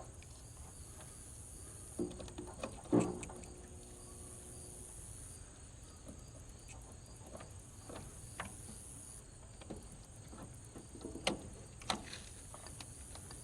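Crickets chirring steadily, with a few scattered knocks and clicks. The loudest knock comes about three seconds in, and two more come near the end.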